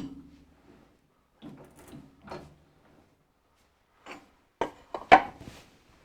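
Metal clunks and clicks from a Hafco AL960B metal lathe as its chuck is turned and handled by hand with the headstock in neutral. There are a few soft rattles, then a cluster of sharp knocks near the end, the loudest about five seconds in.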